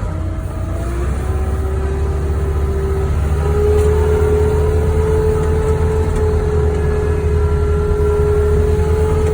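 Wheel loader's diesel engine revving up as the machine sets off, rising in pitch and loudness over the first three or four seconds, then running steadily under load with a steady whine above the low engine rumble.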